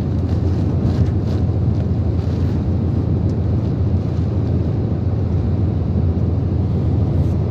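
Typhoon wind and rain rushing in a steady, loud noise that is heaviest low down, with the wind buffeting the microphone.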